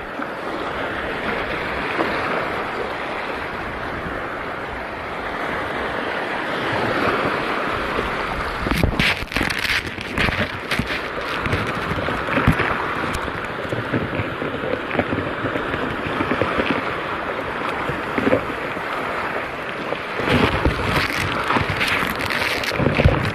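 Sea water washing in the shallows with wind buffeting the microphone, broken by short, sharp noises about a third of the way in and again near the end.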